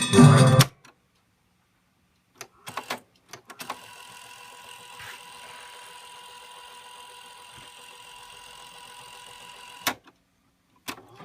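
Boombox record player between records: the music stops, a few sharp clicks follow, then a faint steady hiss with a thin steady whine for about six seconds, a single click, and music starts again at the very end.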